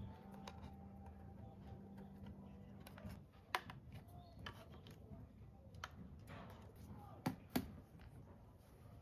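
A faint steady hum that stops about three seconds in, followed by scattered sharp clicks and taps from small hard parts being handled, the loudest two close together near the end.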